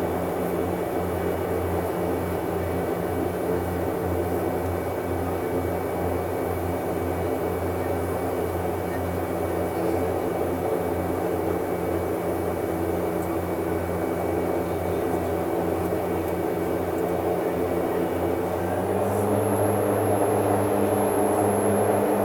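Cabin sound of a BAe Jetstream 32's twin Garrett TPE331 turboprops running steadily. About three-quarters of the way through the power comes up a little: the low drone grows stronger and a high whine starts.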